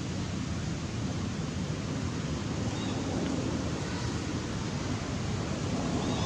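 Steady rushing noise of wind on the microphone, with two faint, brief high chirps.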